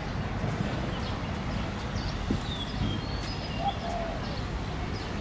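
Steady low outdoor background rumble with a few short high bird chirps and a brief call a little past halfway. A single dull thump comes a little after two seconds in.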